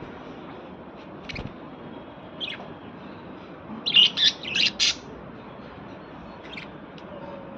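Small birds chirping in short, high calls: a few single chirps, then a quick run of several loud chirps about four seconds in, and one more near the end.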